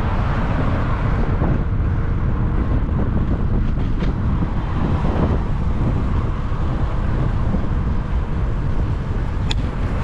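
Wind rushing over the microphone of a moving bicycle, a steady low rumble, with a few faint clicks about four seconds in and again near the end.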